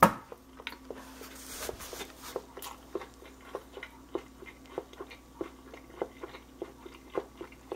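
Someone chewing crispy home-breaded fried chicken: small crunches, about three a second.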